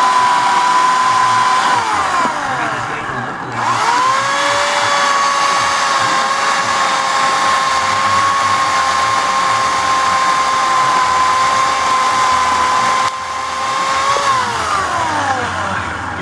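Homelite 14-inch electric chainsaw motor running at full speed with a high steady whine. It winds down about two seconds in, spins back up a moment later and runs on, then winds down again near the end as the trigger is released.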